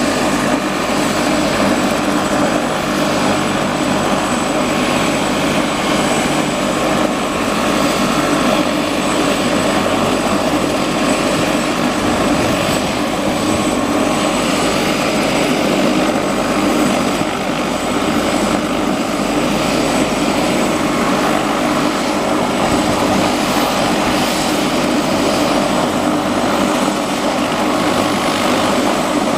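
Helicopter JA6051's turbine engine and rotor running steadily after engine start, with a thin high whine over a dense, even rotor and engine noise.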